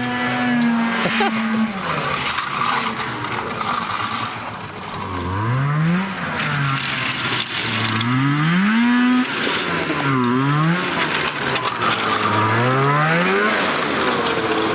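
Dirt bike engine revving up and falling back again and again as it is ridden, its pitch climbing and dropping about every two seconds.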